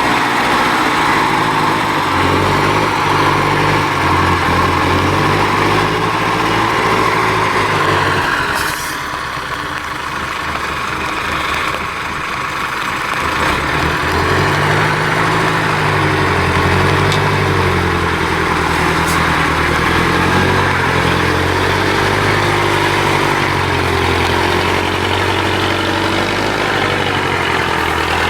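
IFA W50 trial truck's diesel engine running and revving up and down. Its note fades out for a few seconds about nine seconds in, then comes back.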